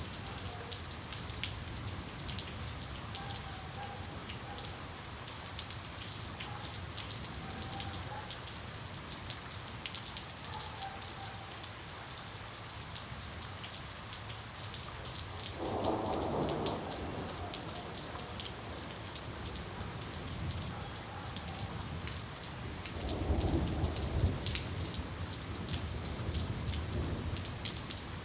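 Steady rain falling, with many sharp individual drop ticks over an even hiss. A brief louder swell comes about halfway, and a low rumble of thunder swells and fades near the end.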